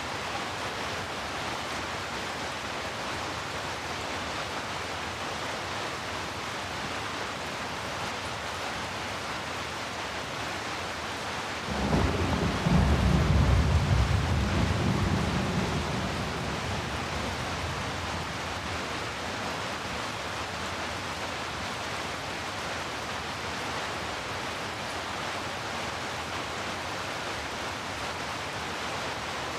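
Steady heavy rain, with a rumble of thunder about twelve seconds in that starts suddenly, is loudest for a few seconds, then rolls away over several more.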